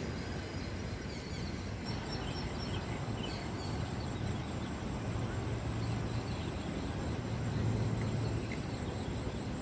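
Steady low outdoor rumble, like distant traffic, with a few faint, short, high chirps of small birds about two to five seconds in.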